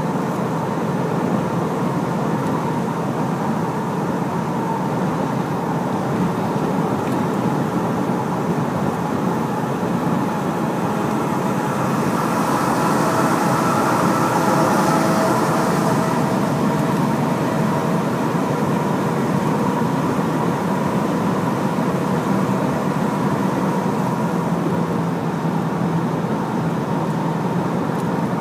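Large Hino truck's diesel engine running under way with steady road and tyre noise. A rush of hiss swells briefly about halfway through, then settles back.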